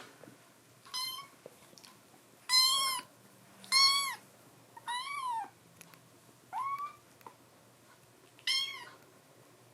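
A kitten meowing six times, high-pitched calls that each rise and fall. The second and third meows are the loudest.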